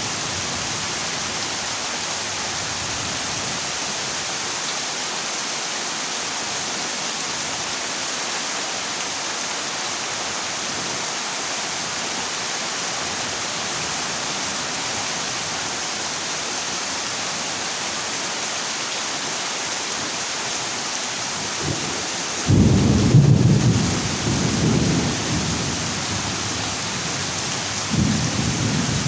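Heavy rain drumming steadily on a zinc sheet roof, with a loud rumble of thunder about three-quarters of the way through and another starting near the end.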